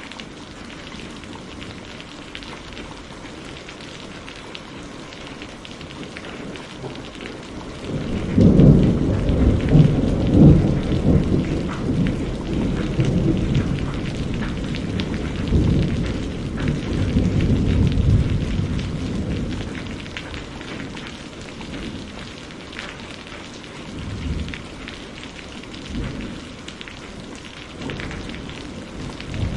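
Steady rain falling, with a long roll of thunder that starts about eight seconds in, rumbles for some ten seconds and fades, followed by a few fainter rumbles near the end.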